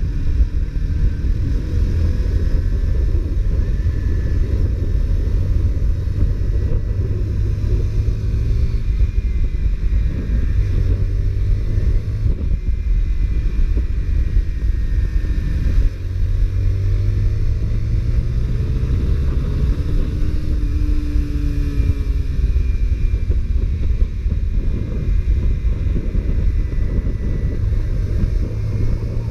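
Honda CBR125R's single-cylinder four-stroke engine through its stock exhaust, ridden continuously, its pitch rising and falling as the rider speeds up and eases off.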